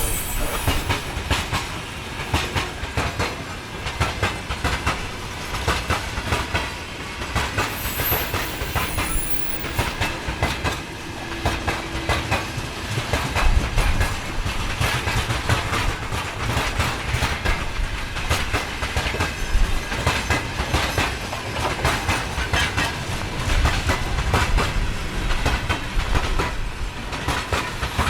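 Train rolling past, its wheels clattering over rail joints in a continuous run of clicks over a low rumble.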